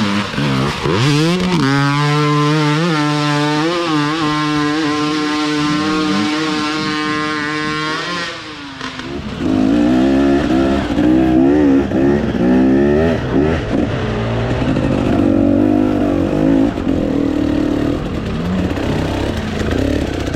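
Dirt bike engine running hard: the revs dip about a second in, hold fairly steady, then after a short lull the throttle is worked up and down repeatedly.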